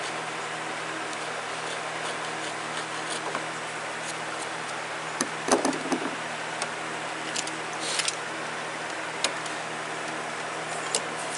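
Electric fan running with a steady hum. A few sharp clicks and knocks break in, a cluster about halfway through and single ones near the end.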